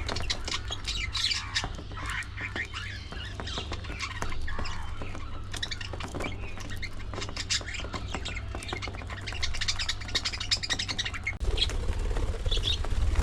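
A colony of budgerigars chattering all at once: a dense, continuous mix of quick chirps and squawks.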